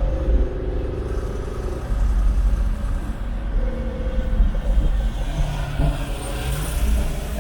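Sports car engine and exhaust running under way, with a heavy low rumble and an engine note that rises and falls as the car accelerates and eases off. This is the car's new long high-merge F1-style exhaust.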